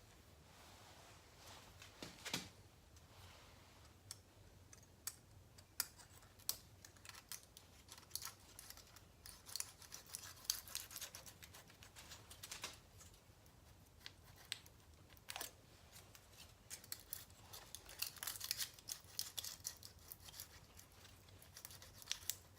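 Scattered small metallic clicks and light scrapes of thin steel feeler-gauge blades being fanned out and slid into the gap between the alternator rotor and stator, checking the air gap, in a few quick clusters.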